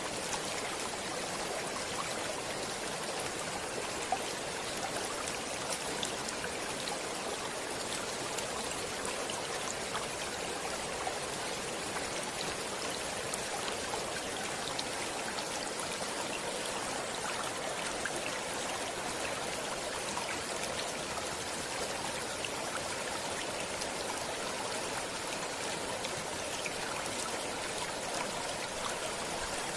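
Stream water running steadily, an even rushing hiss with faint scattered droplet ticks.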